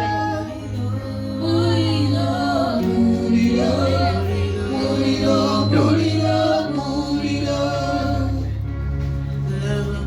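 Gospel worship music: voices singing over sustained keyboard and bass chords.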